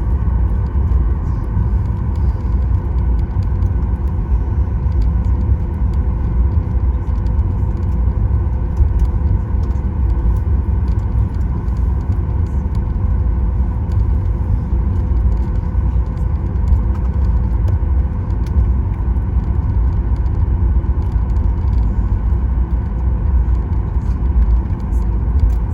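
Inside the cabin of a Boeing 737 MAX 9 taxiing: a steady low rumble from its CFM LEAP-1B engines at taxi power and the roll on the taxiway, with a steady hum on top.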